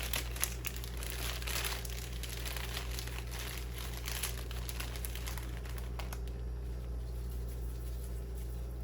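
Plastic bag crinkling and rustling as the leftover jerk seasoning is shaken out of it onto the crackers, busiest in the first four seconds or so, then dying down.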